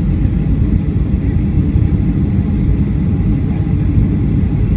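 Steady low rumble inside the cabin of a Boeing 757-200 airliner: engine and airframe noise, even throughout with no distinct events.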